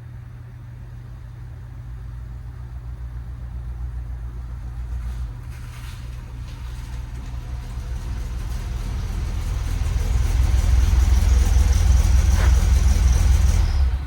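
Air-cooled flat-four engine of a 1963 Volkswagen Beetle running as the car is driven in, growing steadily louder as it comes closer and loudest over the last few seconds.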